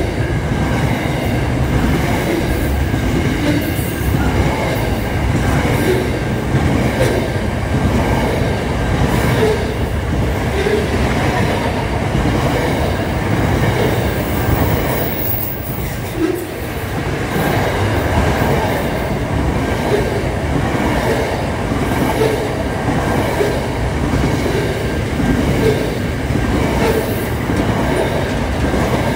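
Double-stacked container freight wagons rolling steadily past close by: a continuous rumble and clatter of steel wheels on the rails, with a faint high steady squeal from the wheels.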